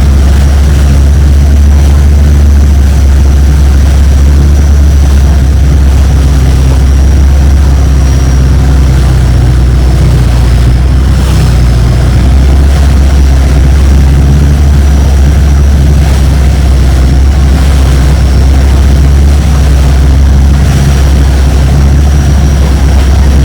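Longtail boat engine running steadily under way, loud and unchanging, mostly low-pitched, with a thin steady high whine.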